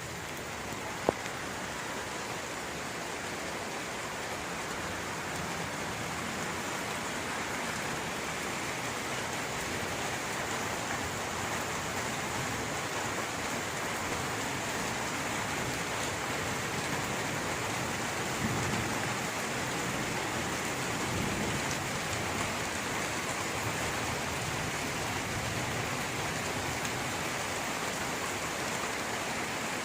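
Steady rain falling on a surface, an even hiss of drops, with one sharp tick about a second in and a slightly heavier low rumble around the twenty-second mark.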